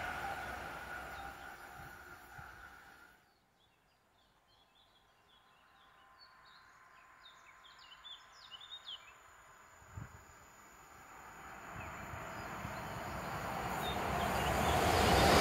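A passenger train's rumble fades away, then stops abruptly. Birds chirp in the quiet, with a single low thump about ten seconds in. Near the end a train hauled by an EU44 electric locomotive (Siemens Taurus) approaches, its noise rising steadily.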